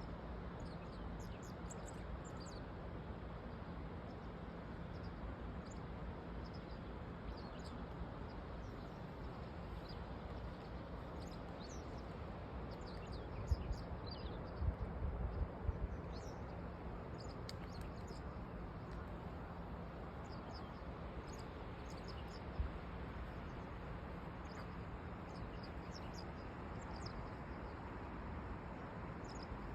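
Small birds chirping on and off over a steady outdoor noise, with a few low bumps about halfway through and one more later on.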